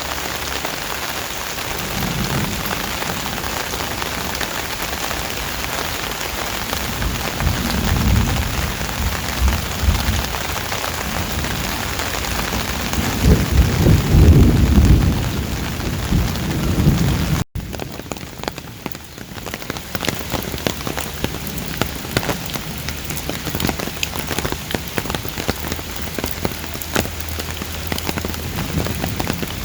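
Heavy rain falling steadily, with deep rumbling swells in the first half. About halfway through the sound cuts off abruptly and the rain comes back lighter, with individual drops ticking.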